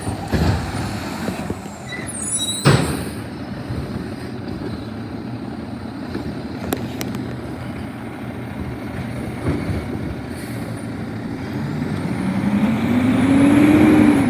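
An Autocar garbage truck's diesel engine running, with one sharp bang about three seconds in. Near the end the engine revs climb and it grows louder.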